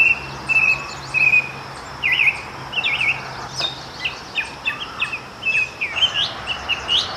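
Song thrush singing in the background: short whistled phrases, several of them repeated two or three times before it moves on to the next.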